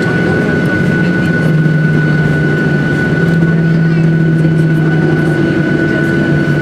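Jet engine noise of a Boeing 737-800 heard inside the cabin: its CFM56-7B turbofans running steadily, a constant drone with a steady high whine above it.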